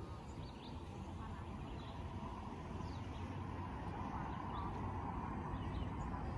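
Small birds chirping, a scatter of short falling notes, over a steady low outdoor rumble.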